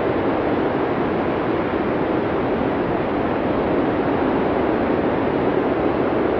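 Blizzard wind blowing steadily: an even, deep hiss with no gusts or separate sounds.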